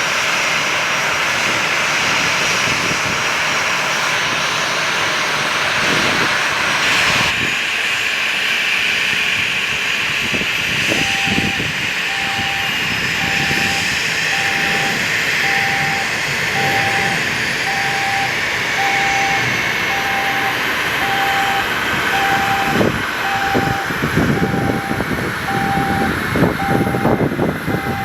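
Aircraft jet engines running with a steady rush. A regular electronic beep, about one every three-quarters of a second, starts about a third of the way in, and gusts of wind buffet the microphone near the end.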